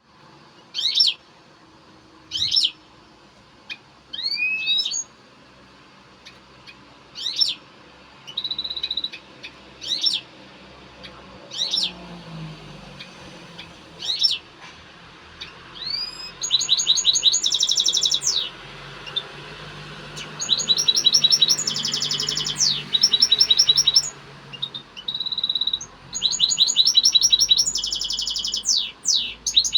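European goldfinch singing in its excited breeding-condition song: sharp, high single notes spaced about a second and a half apart for the first half, then long runs of fast, buzzy twittering phrases from about halfway.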